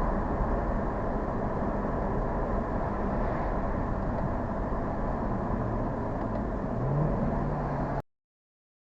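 Car engine running under way with steady road noise; near the end the engine pitch rises briefly and holds. The sound cuts off suddenly shortly before the end.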